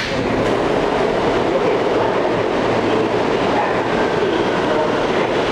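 Steady running noise of an Alstom R160A subway car heard from inside, the wheels rumbling on the track.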